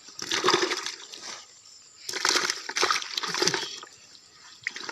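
Water splashing and sloshing in two bursts, about a second apart.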